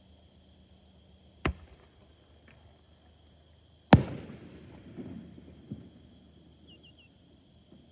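Two aerial firework shells bursting. The first bang comes about a second and a half in. The second, louder one follows about two and a half seconds later, with a trailing rumble and a few smaller pops, while crickets chirp steadily throughout.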